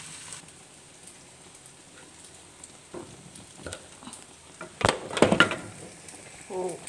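Diced tofu sizzling quietly in a wok, with a few light knife taps on a wooden chopping board. About five seconds in comes a loud, brief clatter of knocks as something is dropped and the kitchen gear is jostled.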